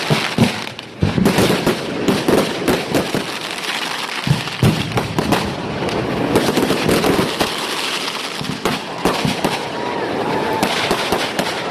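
Fireworks going off in quick succession: a dense, continuous run of bangs and crackling reports.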